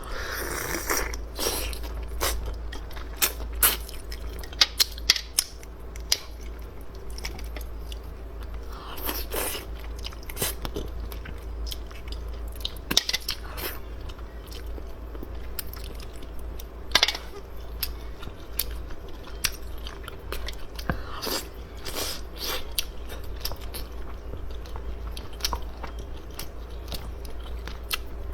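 A person chewing and biting seafood close to the microphone, with irregular crunches, crackles and wet clicks, over a steady low hum.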